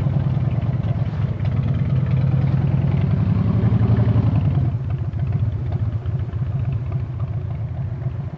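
Harley-Davidson V-twin motorcycle engine running under the rider, with its pulsing low note. It grows louder and climbs a little for about two seconds as the bike pulls away, then eases back about halfway through.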